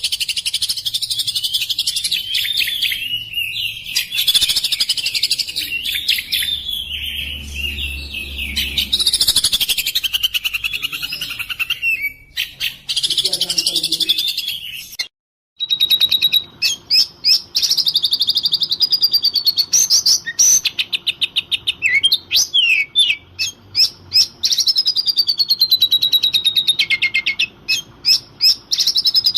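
Oriental magpie-robin (kacer) singing hard, in fast, varied whistled phrases and trills. About halfway through the sound drops out for a moment, then comes back as rapid repeated chattering notes and sliding whistles over a faint steady hum.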